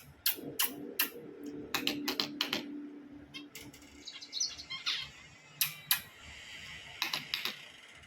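Finches making short chirps amid a run of sharp clicks and taps, with a burst of chirping about halfway through and again near the end.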